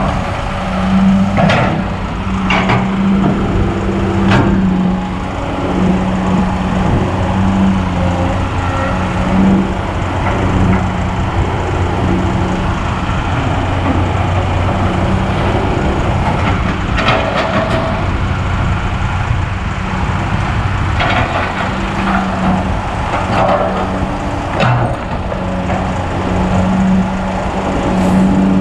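Kobelco SK200 excavator's diesel engine running under working load, its note swelling and easing over and over as the hydraulics dig and swing, with several sharp clanks and knocks from the bucket and soil.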